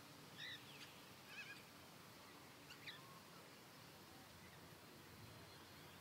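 Faint, short bird chirps, three brief calls in the first three seconds, over a near-quiet background hiss.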